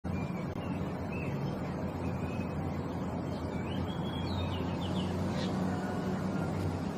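A bird chirping in short, faint whistled notes, with a quick run of chirps about three and a half seconds in, over a steady low rumble.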